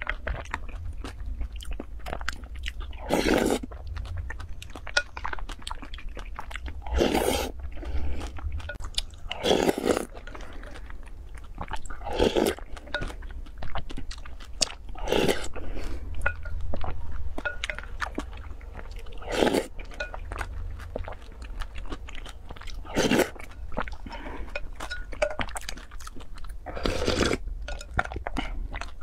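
Close-miked chewing of soft fruit, with wet mouth clicks throughout and a louder slurp about every three to four seconds as each spoonful of dragon fruit in pink liquid goes into the mouth.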